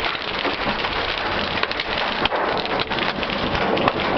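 Hail pelting a car's roof and windshield, heard from inside the cabin: a dense, unbroken clatter of many small impacts at a steady level.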